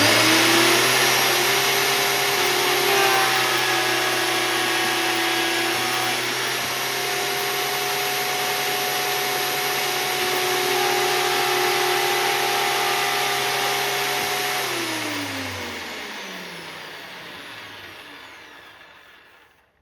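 Vevor 13-inch 2000 W three-blade benchtop planer starting up with a rising whine, running steadily through a planing pass on a thick oak board, then switched off about 15 seconds in and winding down with a falling pitch until it dies away.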